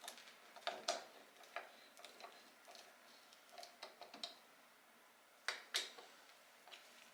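Scattered light clicks and taps of small hard objects being handled, at an irregular pace, with two louder clicks about five and a half seconds in.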